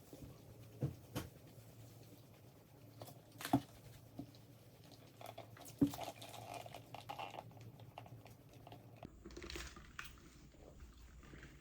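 Faint eating sounds: chewing and handling food, with a few scattered sharp clicks and knocks.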